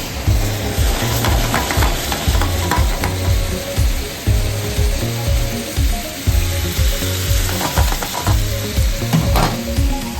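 Chicken karahi sizzling in hot oil in a karahi wok while being stirred, over background music with a steady low beat.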